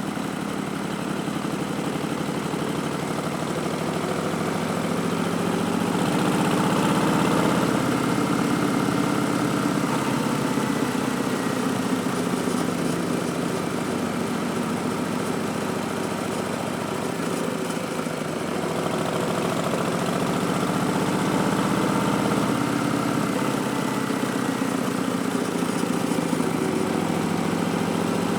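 2019 Harley-Davidson Street Bob's Milwaukee-Eight 107 V-twin running through Vance & Hines Twin Slash slip-on mufflers. Its pitch rises and falls with the throttle, climbing about six seconds in and again about twenty seconds in.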